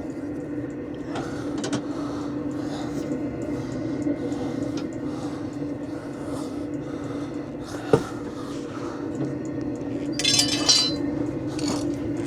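A jack being worked to raise a van's fuel tank: light metallic clinks and strokes about twice a second over a steady low hum, with a sharp click about eight seconds in and a louder scraping rustle near the end.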